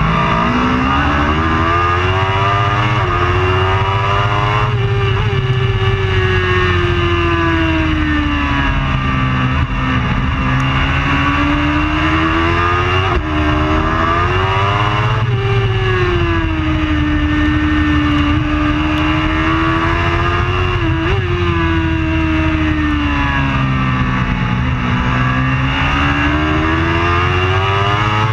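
Superbike engine running hard throughout, its revs climbing and falling again and again in long swoops, with a few sudden jumps in pitch along the way.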